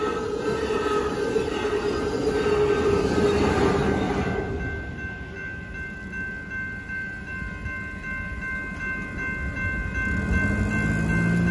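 The tail of a Capitol Corridor passenger train passes a grade crossing for about four seconds, with its Siemens SC-44 Charger locomotive pushing at the rear. After it clears, the crossing's electronic bells ring steadily, and a low hum comes in near the end as the gate arms lift.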